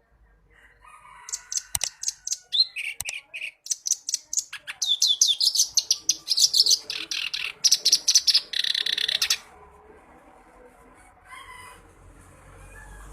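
Reed warbler (kerak basi) singing: a rapid chatter of repeated notes in short series that switch pitch, stopping suddenly about nine seconds in.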